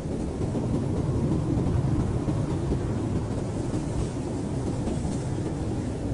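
Heavy blizzard wind blowing steadily, a deep, even rush of noise.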